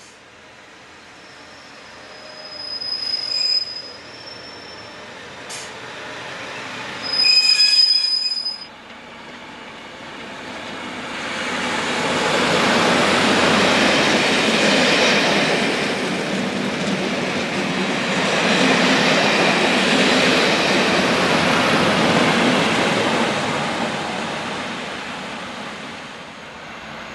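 A train passing through a station, its rumble building over a few seconds, staying loud for about ten seconds, then fading away. Before it arrives there are two short shrill tones, about three and eight seconds in; the second is the loudest moment.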